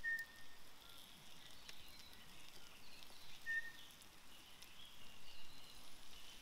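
Quiet woodland ambience with faint distant bird calls: a few short whistled notes.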